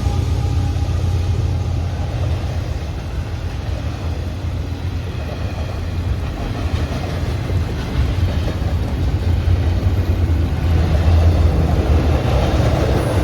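Cars of a CSX manifest freight train rolling past with a steady low rumble that swells a little near the end.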